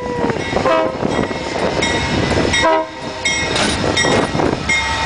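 Amtrak passenger train passing close behind a GE Genesis diesel locomotive. The horn's held chord dips in pitch and ends just after the start. Then comes the running train and its wheels knocking over the rail joints, with a few short pitched notes over it.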